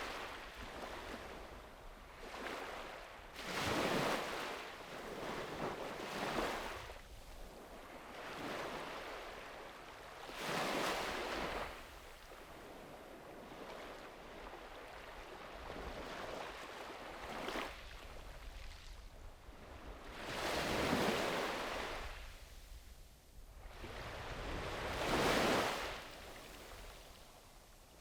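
Small sea waves breaking and washing up on a sandy beach, one after another, each surge rising and falling off every few seconds. The biggest washes come around the middle and near the end.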